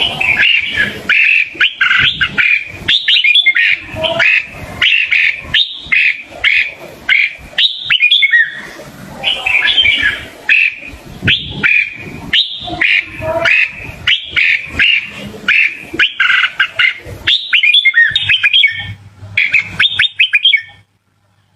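Red-whiskered bulbul giving a rapid, continuous run of loud, bubbly chirping phrases, which stop abruptly near the end.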